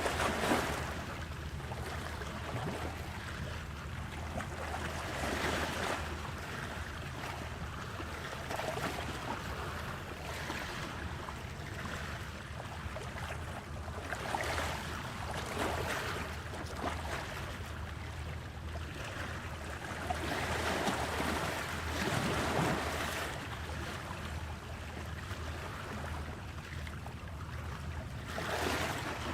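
Sea water washing and surging, swelling every few seconds, over a steady low hum.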